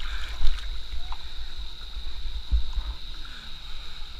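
River water moving around a raft, with an uneven low rumble of buffeting on the microphone and a steady high whine.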